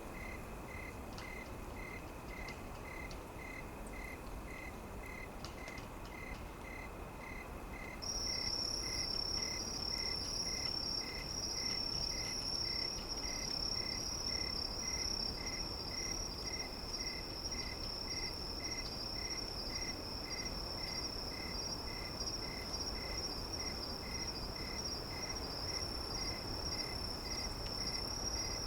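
Insects calling: slow, even chirps about twice a second, joined about eight seconds in by a loud, unbroken high trill, over a low, steady rushing background.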